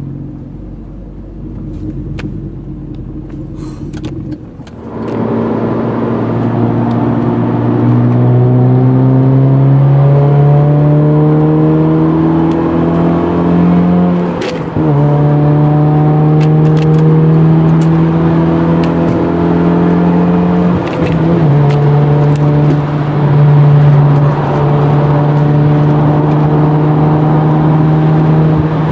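Honda Civic FN's 1.8-litre R18 four-cylinder engine through a custom exhaust with the mid silencer and back box removed, pulling hard with pitch climbing steadily, with gear changes about 14 and 21 seconds in and steady running between and after. The first few seconds are quieter, before the throttle opens about five seconds in.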